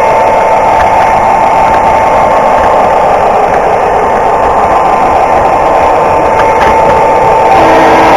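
An O scale model GP9 diesel locomotive running on the layout: its sound system plays a steady diesel engine sound over the running noise of the train. A horn starts sounding near the end.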